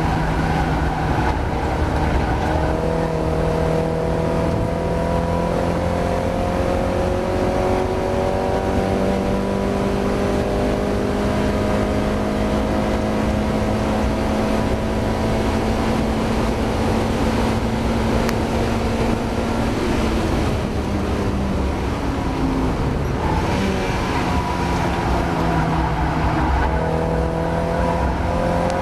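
Mazda MX-5 race car's four-cylinder engine pulling hard, its pitch climbing slowly through a long run in one gear. About two-thirds of the way through the pitch drops away as the car slows and changes down, then it climbs again under power near the end.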